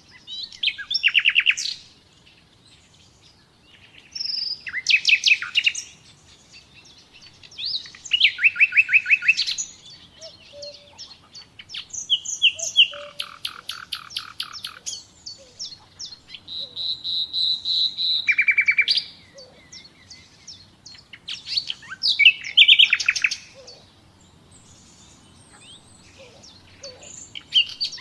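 Nightingale singing: a run of song phrases, each about two seconds long and separated by short pauses, built of fast repeated notes and rapid trills.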